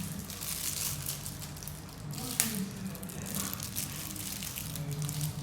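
Rustling and crinkling of things being handled, with one sharp click about two and a half seconds in.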